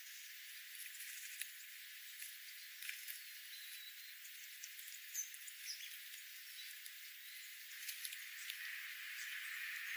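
Faint wild birds giving a few short, high chirps, with scattered small clicks over a steady outdoor hiss.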